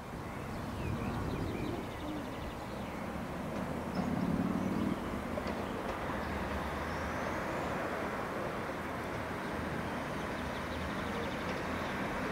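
A train approaching along the line through a station, heard as a steady rumble with a faint high whine.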